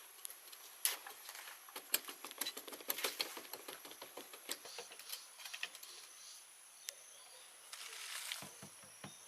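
Irregular run of light clicks and taps, closely spaced in the first few seconds and sparser later, with a short hiss-like swell near the end.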